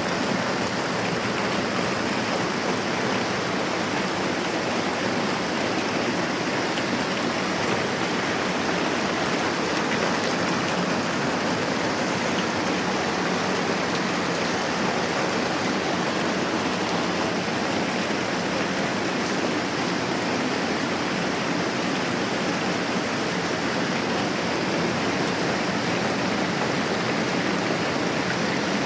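Steady moderate rain falling, an even wash of water noise with no pauses.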